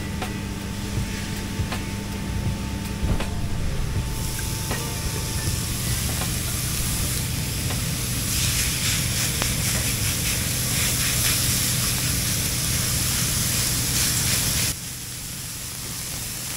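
Burger patties and mixed vegetables sizzling in a hot grill pan and frying pan over a steady low hum. The sizzle swells about halfway through as the raw patties go onto the grill pan, then cuts off suddenly near the end.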